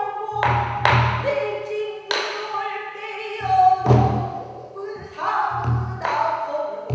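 Pansori singing: a solo voice holding and bending long sung notes, accompanied by buk barrel-drum strokes, low thuds and sharp taps on the drum's rim, a second or so apart.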